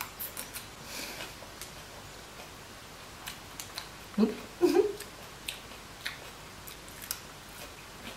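Close-up mouth sounds of biting into and chewing a fresh rice-paper spring roll packed with crisp lettuce and herbs: a run of short, crisp crackles. About four seconds in there is a brief hummed "mm".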